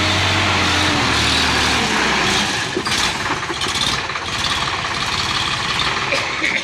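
Sonalika DI 50 RX tractor's diesel engine running loud, its pitch sliding down over the first two seconds, then giving way to a loud, rough, noisy sound that stops abruptly at the end.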